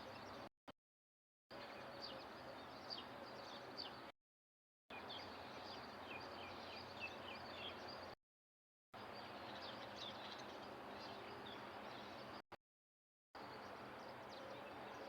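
Faint, quick high chirps from small birds over a steady outdoor background hiss, heard in several short stretches that cut abruptly to dead silence between them.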